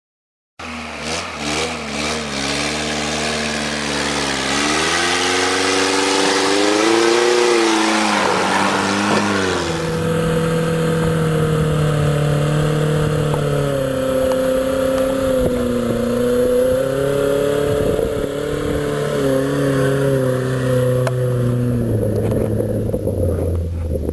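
1989 Toyota pickup truck's engine running under load, its revs rising and falling again and again. The sound starts abruptly about half a second in.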